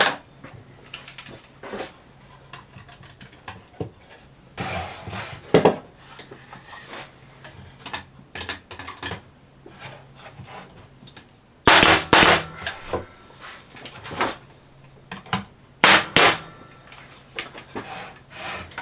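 Cedar fence-picket roof boards being nailed on: clusters of sharp, loud cracks about five, twelve and sixteen seconds in, the loudest near twelve, with light wooden clicks of the boards being handled in between.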